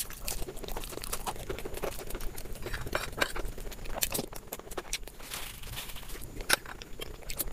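Close-up chewing and mouth sounds of someone eating samosa with chickpea curry: a rapid, irregular run of wet clicks and soft crunches.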